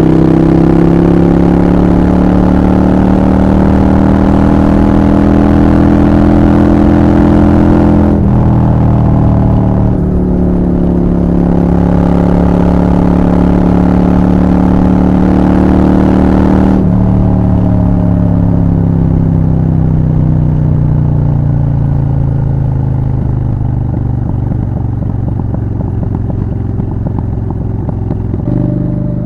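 Honda Shadow 750 Black Widow's V-twin engine under way, holding steady revs with a short dip and recovery about eight seconds in, like a gear change. From about halfway on, the revs fall slowly and steadily as the bike slows off the throttle.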